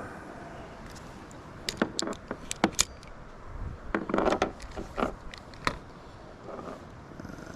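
Irregular sharp clicks, knocks and rattles of fishing gear being handled in a kayak while a drop-shot hook is re-baited with a live grass shrimp, busiest about four seconds in.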